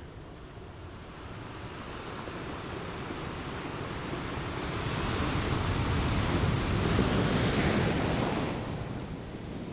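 Sea surf: a steady rush of waves that swells to its loudest in the middle and falls away near the end.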